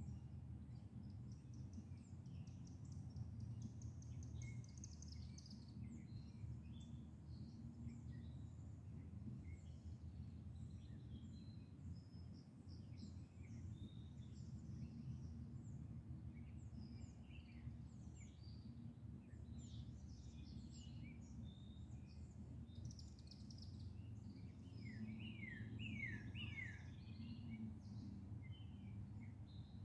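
Several small birds chirping and singing over a steady low rumble, with a quick run of falling chirps near the end.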